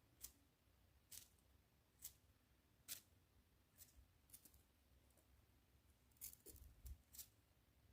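Faint, sharp crisp clicks or snips, about one a second, coming closer together near the end.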